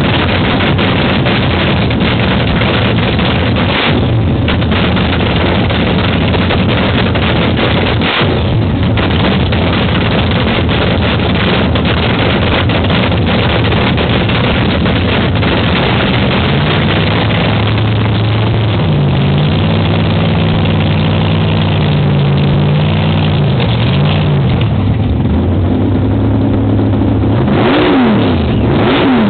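Funny car's drag racing engine running with a loud, rough cackle at a steady idle, then revved up and down several times in the second half, with a quick sharp blip near the end.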